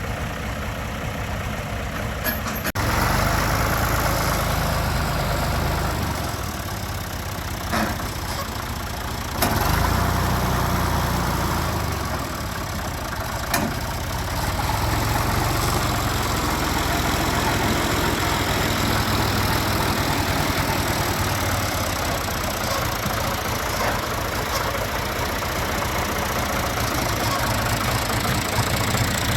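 A vehicle engine running steadily, getting louder about three seconds in, with a few sharp knocks along the way.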